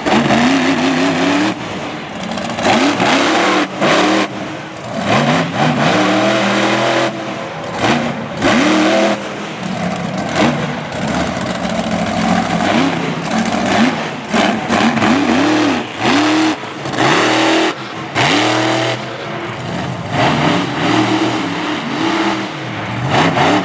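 Monster truck engine revving hard and unevenly, its pitch climbing and falling over and over as the throttle is worked, with short cut-outs between blips.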